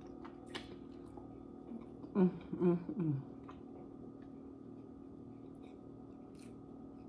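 Close-miked chewing of buttery crab meat, with small wet mouth clicks and two short hummed sounds about two seconds in. A faint steady hum runs underneath.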